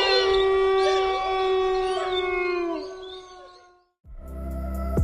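A pack of wolves howling in chorus: several long, overlapping howls held on steady pitches, some sliding down at their ends, fading out just before four seconds in. Music with a beat begins right after.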